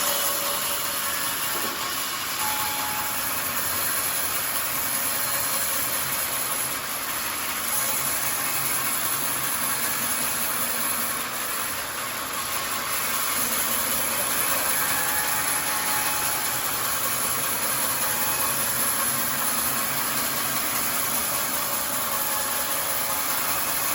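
Homemade sawmill running steadily: a continuous, even rushing noise with little change in level.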